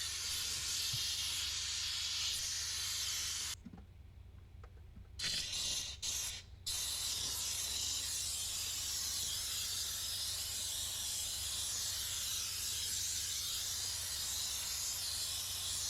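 Steam cleaner spraying steam through its nozzle: a steady hiss that cuts off for about a second and a half some four seconds in, comes back briefly, stops again for a moment, then runs on steadily.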